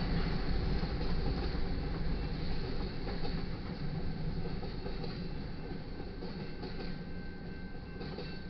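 Covered hopper cars of a freight grain train rolling past over a grade crossing, with a steady rail rumble that fades gradually as the end of the train goes by.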